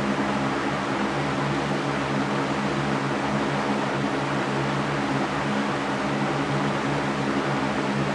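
Electric fan running steadily: an even rushing hiss of moving air over a low motor hum.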